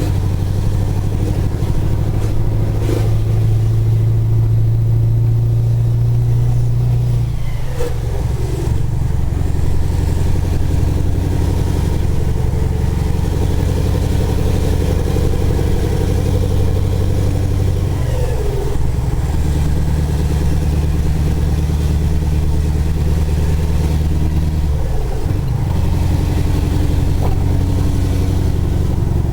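Scania 143 450's 14-litre V8 diesel running steadily under load, its deep engine note shifting to a new pitch a few times, about 8, 18 and 25 seconds in.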